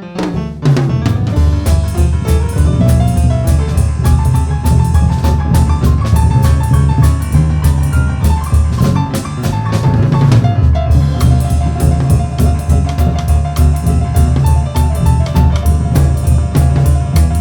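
Boogie-woogie trio playing live, with the drum kit driving a steady beat on bass drum and snare under pitched notes. The full band comes back in about half a second in, after a brief dip.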